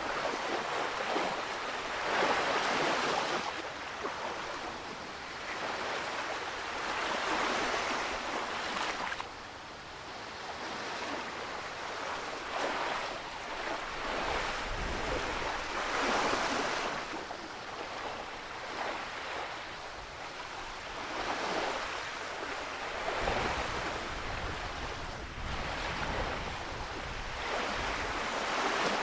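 Ocean waves breaking on the shore, a wash of noise that surges and falls back every few seconds.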